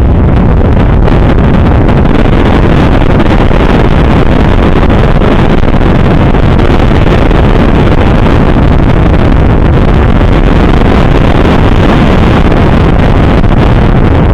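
Loud, steady wind rush on the microphone with vehicle road noise underneath, as heard while riding along a road.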